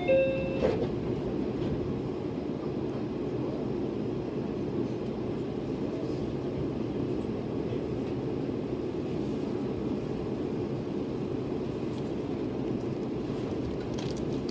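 Steady low hum and rumble inside a Meitetsu electric train carriage standing at a station, with a brief ringing tone in the first second. The train starts to move off near the end.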